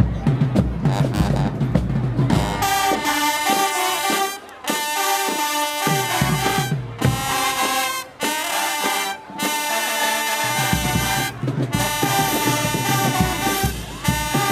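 Marching band playing: brass horns in loud held chords over drums, with short breaks between phrases. The low drums drop out for several seconds in the middle and come back in near the end.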